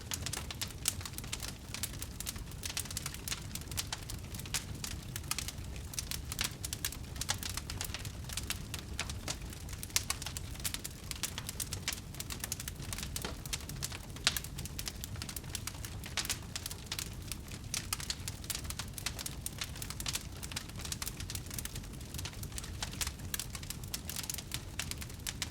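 Wood fire burning, a steady stream of crackles and sharp pops from the burning wood over a low rumble.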